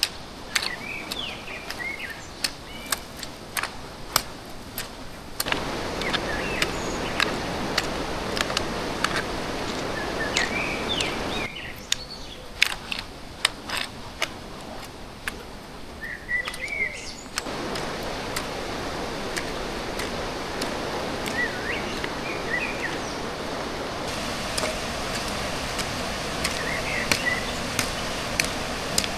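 A fast-flowing stream rushing steadily, its level stepping up and down a few times, while small birds chirp now and then. Many short, sharp clicks and knocks sound over it.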